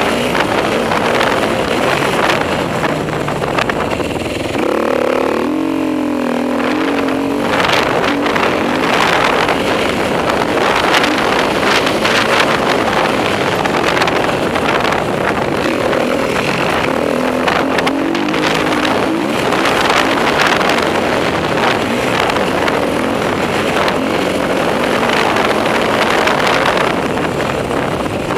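Enduro motorcycle engine revving up and down as the bike is ridden hard around a dirt motocross track, the pitch rising and falling with throttle and gear changes.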